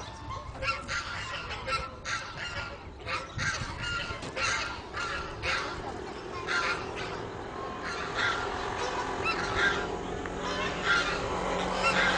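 Birds honking over and over: short calls, one or two a second, in irregular runs.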